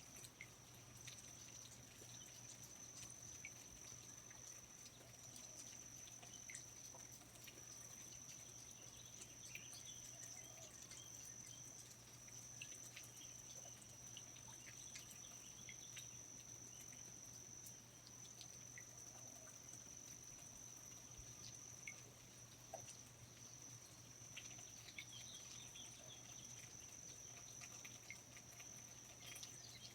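Faint rainforest ambience: a steady high-pitched insect trill, with scattered short chirps and occasional soft clicks like drips.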